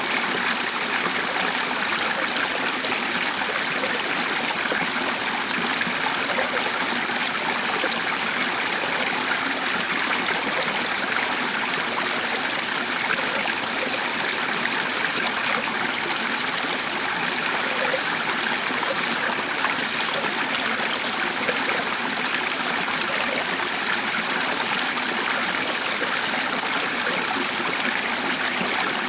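Running water, like a stream, making a steady, even rush with no breaks or changes.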